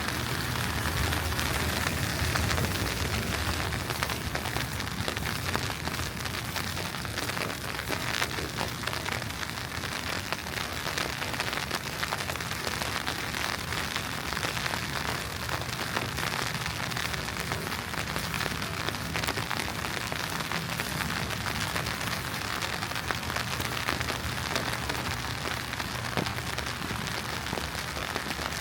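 Steady hiss with fine pattering of wet snow falling on the street at freezing point, over a low city rumble that swells and fades.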